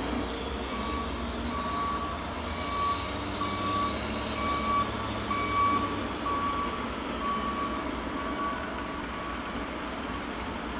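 Reversing alarm on heavy equipment at a mulching yard, beeping steadily at about three beeps every two seconds, growing louder and then fading away near the end. A steady low engine rumble from the machinery runs underneath.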